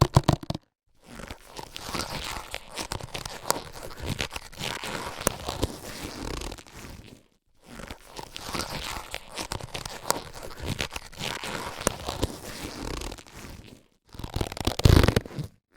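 Latex surgical gloves being handled: a run of rustling and crackling with many small clicks. It breaks off briefly about a second in, halfway through and near the end, and a louder flurry comes just before the end.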